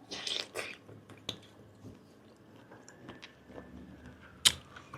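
Close-up biting and chewing of grilled giant octopus tentacle, with a cluster of wet mouth sounds in the first second, a few short clicks, and one sharp click about four and a half seconds in.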